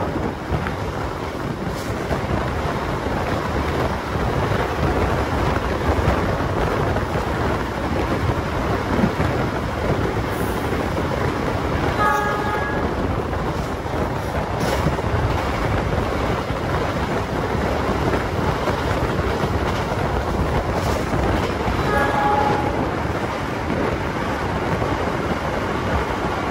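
Passenger train running at speed, a steady loud rumble and rush of wheels on rail. The locomotive horn sounds two short multi-tone blasts, about ten seconds apart.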